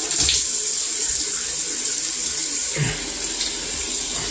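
Running water from a shower tap pouring steadily over Dyson vacuum filter and canister parts as they are rinsed clean, with a couple of brief splashes about a quarter second in and near three seconds.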